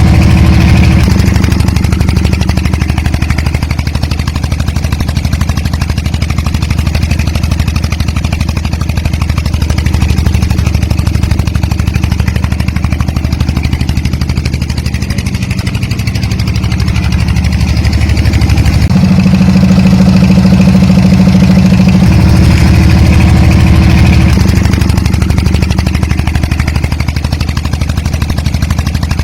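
The small motor of a DIY mini tractor runs steadily and loudly, its low note shifting up and down a few times as the load changes.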